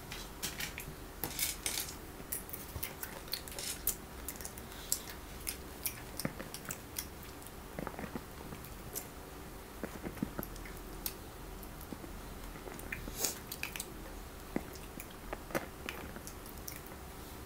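Chocolates being bitten and chewed, close up: irregular small crunches and clicks throughout, with no steady rhythm.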